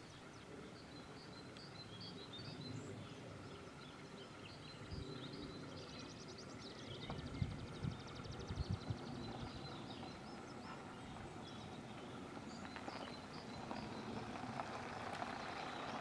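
Outdoor woodland-edge ambience: small birds chirping faintly over a steady low background hiss and rumble, with a fast high trill about six seconds in and a few soft low knocks a little later.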